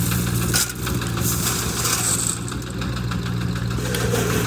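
Diesel engine running steadily at a low, even speed from the machines loading stone, with one sharp knock about half a second in.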